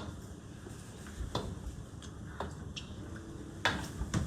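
A few scattered light clicks and taps, about half a dozen spaced irregularly, over a low steady background hum.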